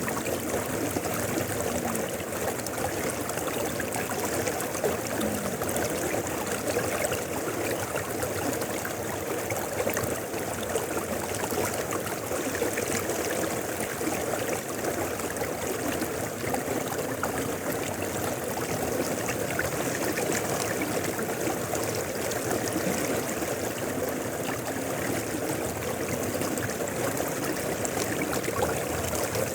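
A shallow mountain river flowing steadily over rocks, a constant rushing and babbling of water with no breaks.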